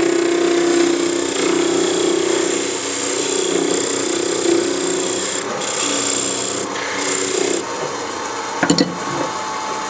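Wood lathe spinning while a parting tool cuts into a small wooden star ornament, a steady scraping hiss over the lathe's hum. About seven and a half seconds in the cutting noise drops away, and a couple of sharp knocks follow about a second later.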